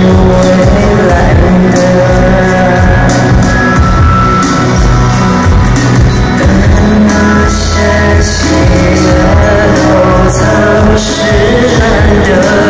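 Live band playing a pop-rock song, with drums and a sustained melody line over the band.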